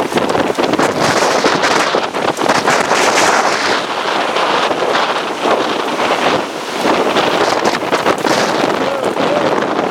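Storm wind blowing hard across the microphone, a loud, continuous rushing noise that surges and dips in gusts.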